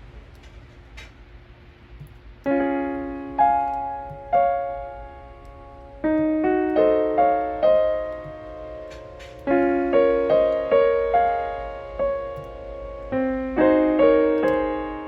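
Background piano music: quiet for the first couple of seconds, then gentle piano chords and single notes struck one after another, each ringing and fading.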